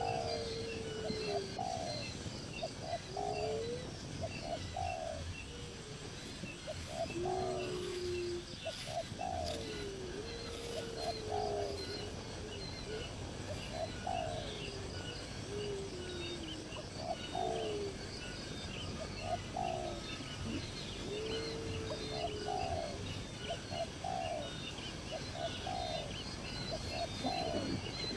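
Birds calling: short, low, arched notes repeated about once a second, with a few longer low glides among them, over steady high-pitched chirping.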